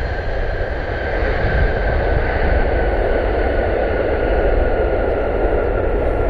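A jet airliner's engines going by: a steady whine that slowly falls in pitch, over a low rumble, growing a little louder after about a second and a half.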